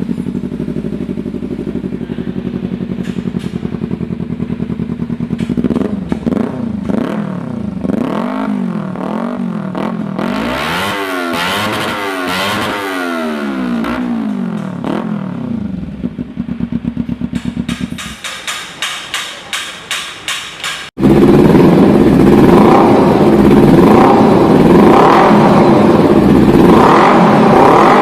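Kawasaki Ninja 300 parallel-twin engine through an aftermarket exhaust: idling, then revved repeatedly in rising and falling sweeps, then a string of short throttle blips. About 21 seconds in it cuts to a louder engine running with a steady pulsing rhythm.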